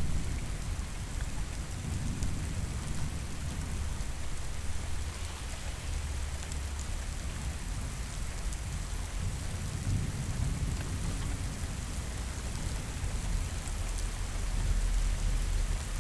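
Steady rain pattering with low, rolling thunder rumbling underneath, swelling about two-thirds of the way in and again near the end.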